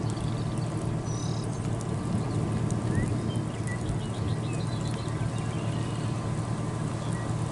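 Steady low hum of an idling vehicle engine, with scattered short bird chirps over it.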